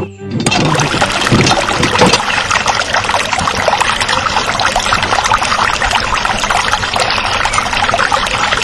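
Water pouring and trickling steadily, a dense, crackly splashing.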